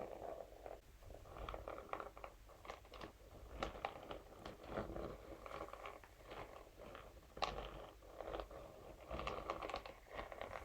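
Scalp massage brush scratching and tapping over a material in short, irregular strokes, several a second, with one sharper click about two thirds of the way through.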